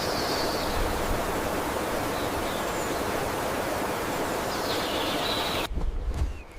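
Steady rushing sound of running water, with faint high bird calls over it. The sound cuts off abruptly near the end, leaving a much quieter background with a low rumble.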